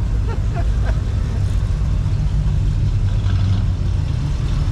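Car engine running with a low, steady rumble, as at a slow crawl or idle.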